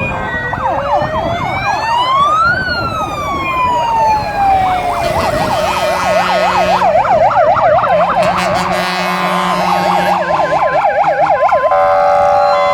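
Several fire engine sirens sounding at once: a slow wail climbs and then falls away about two and a half seconds in, over fast warbling yelps, and about nine seconds in a two-tone alternating siren joins.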